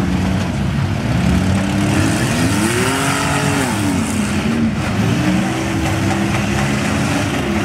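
Minivan engines revving hard together in a demolition derby, several pitches rising and falling over one another, with one engine swooping up and back down about three seconds in.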